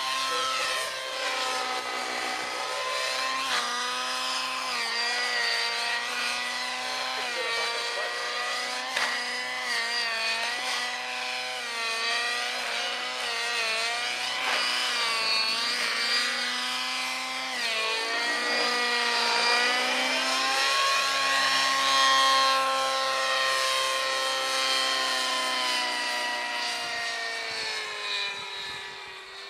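Radio-controlled helicopter in flight: a steady motor-and-rotor whine whose pitch swings up and down again and again as it manoeuvres.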